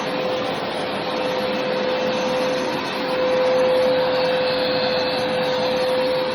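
Hoover carpet-cleaning machine running steadily, its motor giving a constant whine over the rush of air, a little louder about three seconds in.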